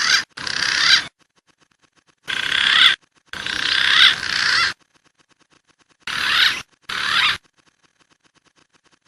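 Green pigeon (punai) calls from a bird-lure recording: short, high, rasping warbled calls that come in pairs, six calls in all, each starting and stopping abruptly. Faint ticking can be heard between them.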